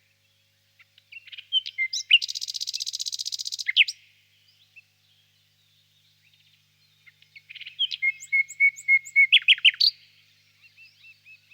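Nightingale singing two song phrases about three seconds apart: the first builds from short chirps into a fast rattling trill, the second is a run of repeated whistled notes ending in quick sharp chirps.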